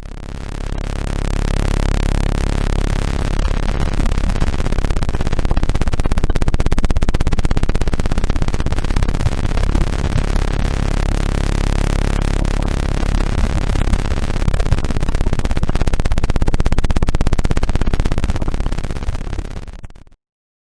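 Dense layer of electronically generated tones: many steady low pitches under a harsh, hissing wash. It fades in over the first couple of seconds, then fades out and stops just before the end.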